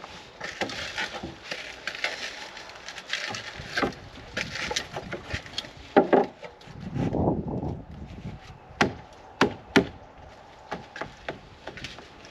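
Spruce boards being handled and worked: irregular wooden knocks and scrapes of wood on wood, with three sharp knocks about two-thirds of the way through.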